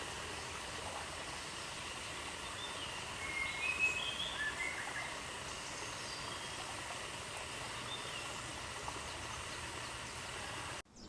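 Outdoor ambience: a steady hiss of background noise, with a few short bird chirps about three to five seconds in and one more near eight seconds.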